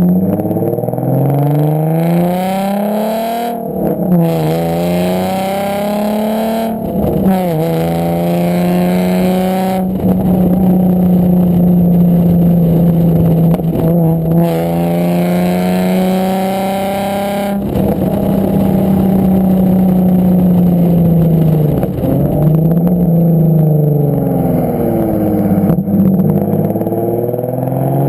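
Nissan 350Z's VQ35HR 3.5-litre V6 through a decatted straight-pipe exhaust with a Borla muffler, under way: the revs climb and drop sharply three times in the first ten seconds like gear changes, hold steady for about eight seconds, then fall away with a couple of dips and climb again near the end.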